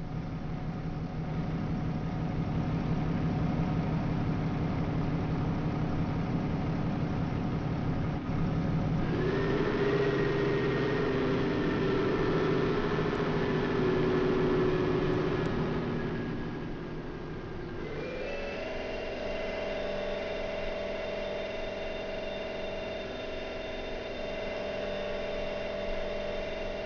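Truck running with a steady hum, its pitch changing in steps about a third and two-thirds of the way through.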